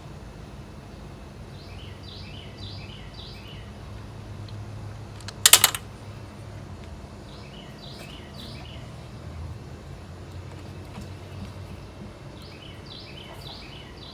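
A songbird singing the same short chirping phrase three times, a few seconds apart, over a low steady hum. About five and a half seconds in there is a brief, loud clatter.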